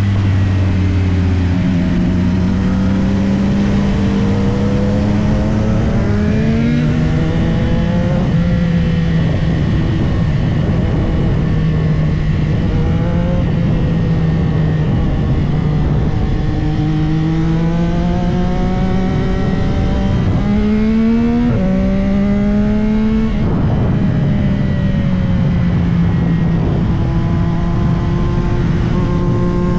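Onboard sound of a CFMOTO 675SR-R's three-cylinder engine under way, its pitch climbing in each gear and dropping back at shifts several times, over a steady rush of wind.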